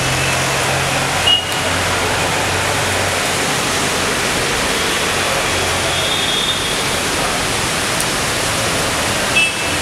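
Heavy rain falling in a steady, dense hiss, with a low hum underneath and two brief high squeaks, about a second in and near the end.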